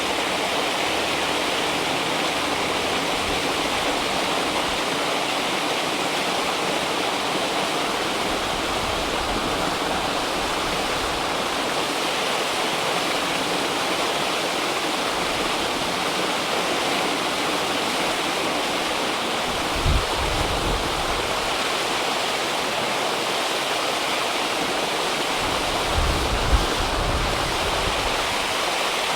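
River water rushing steadily, a dense even flow. A couple of brief low bumps stand out, one about two-thirds of the way in and another near the end.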